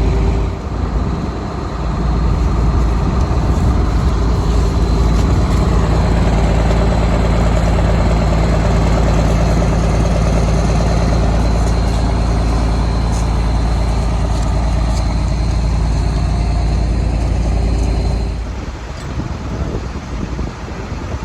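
A large engine running steadily close by, with a deep, even hum and a faint high whine over it; it drops off sharply about 18 seconds in.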